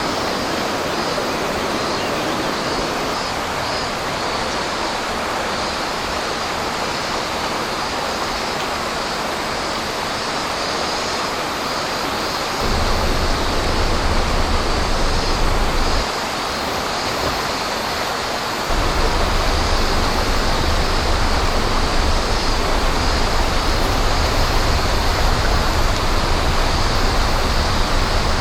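Steady rushing of flowing water, a stream or river. A deep low rumble comes in about 13 seconds in, drops away briefly, and returns from about 19 seconds on.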